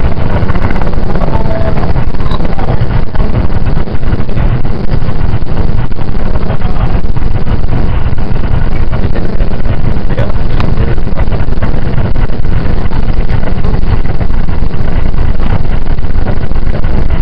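Running noise of a JR 681 series limited express electric train at speed, heard inside the passenger car: a loud, steady rumble of the wheels on the track.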